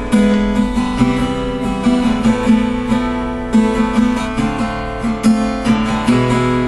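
Acoustic guitar strummed chords in an instrumental passage of a song, with no singing.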